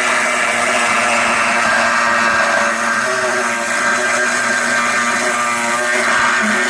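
Handheld electric power tool running steadily at high speed on car body sheet metal, a loud whine with a hiss over it.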